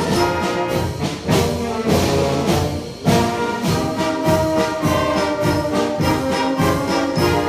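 Youth concert band playing a Disney medley: brass and woodwinds sustain chords over a steady percussion beat.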